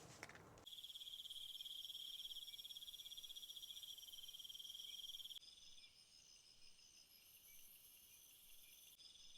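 Chorus of trilling insects such as crickets: a fast-pulsing high trill over steady higher chirps. It starts abruptly after a moment of rustling, and about five seconds in gives way suddenly to a fainter chorus of intermittent high chirps.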